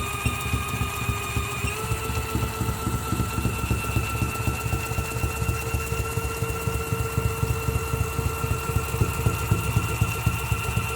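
A small electric motor running steadily with a constant whine over a rapid low rattle; its pitch steps up slightly about two seconds in.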